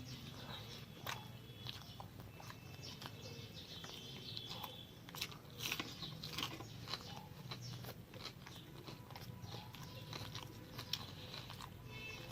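A person chewing and biting food close to the microphone: irregular wet clicks and small crunches of eating mouthfuls.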